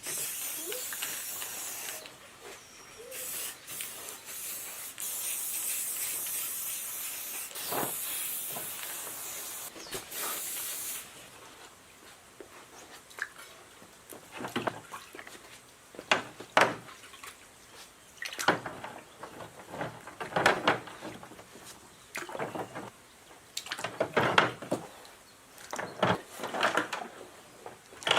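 A spray hissing in long bursts for the first ten seconds or so, then a string of scattered knocks and clatters as metal parts are handled.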